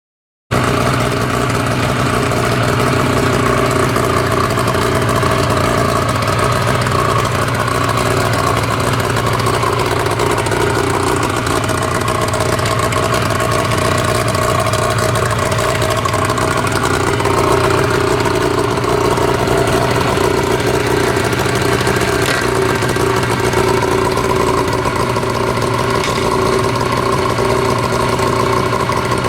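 Suzuki DT40 two-stroke three-cylinder outboard motor running steadily at an even speed.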